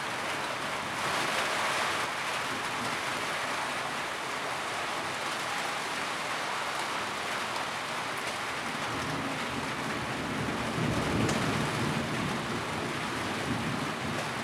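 Steady rain drumming on a tin roof, an even hiss of many drops. A low rumble swells and fades about ten seconds in.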